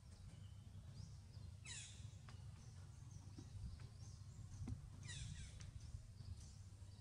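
Faint forest ambience with a low steady rumble. A bird gives a quick falling call twice, about two seconds in and again about five seconds in.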